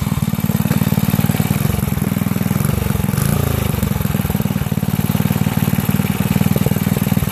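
5 hp Briggs & Stratton single-cylinder engine running steadily, its firing pulses fast and even, while it still burns through water left in it from being doused.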